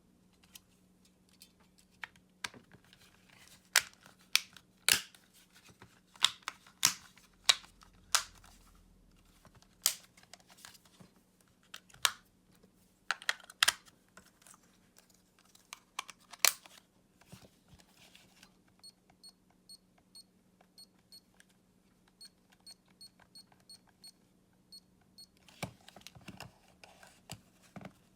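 Sharp remote control's plastic case and buttons clicking and snapping as it is handled, in sharp separate clicks, then a run of faint regular ticks and a last cluster of clicks near the end, over a faint steady hum.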